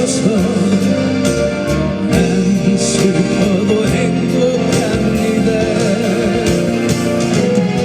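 Korean pop ballad played live: a male singer holding sustained, wavering notes over a steady backing track.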